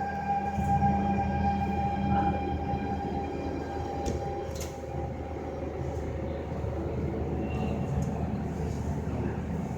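SMRT C651 metro train running, with steady rumble and a steady whine that fades out about three seconds in.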